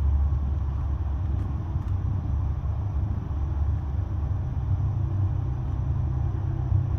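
Mother cat purring in a steady low rumble as she nurses her newborn kitten.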